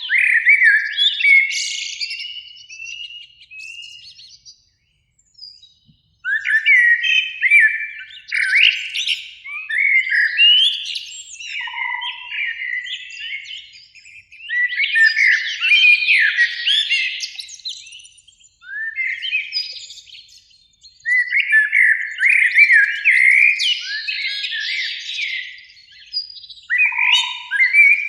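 Common blackbird singing: bursts of warbling, gliding song phrases a few seconds long, separated by short pauses.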